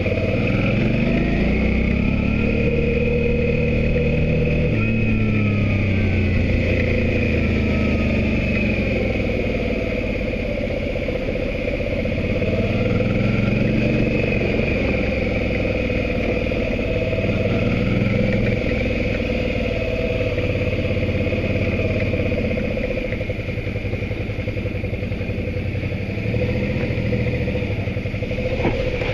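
Motorcycle engine running under way, its pitch climbing and dropping several times with throttle and gear changes, over a steady rush of wind and road noise.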